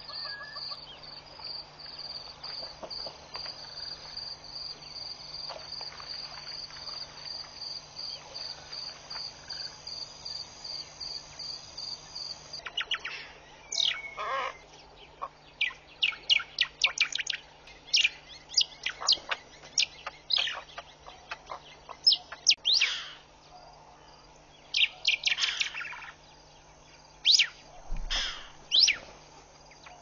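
A steady, high pulsing trill at about three pulses a second runs for the first dozen seconds, then stops. After that, wild birds call repeatedly in loud, sharp, high notes that come in quick runs.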